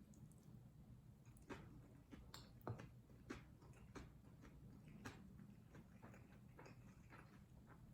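Faint, irregular little clicks and taps of someone eating fried rice, about a dozen soft ticks spread unevenly through a near-silent room.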